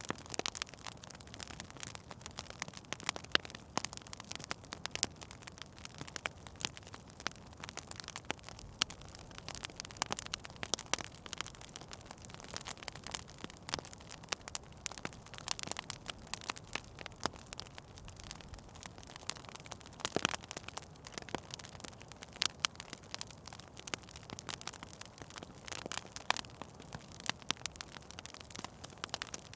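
Fire in a fireplace crackling steadily, with many irregular snaps and pops, a few louder than the rest, over a soft hiss.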